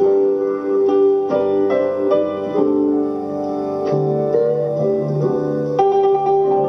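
Instrumental break in a soul ballad: piano chords and held notes, with no singing.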